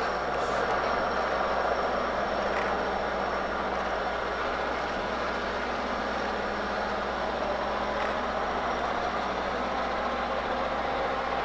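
Heavy diesel engines running steadily: a constant rumble and roar with a faint high whine over it.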